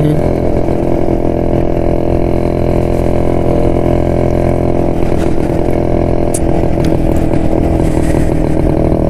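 Two-stroke single-cylinder engine of a 1972 Jawa motorcycle running steadily under way, heard from on the bike, with a rushing haze of wind and road noise.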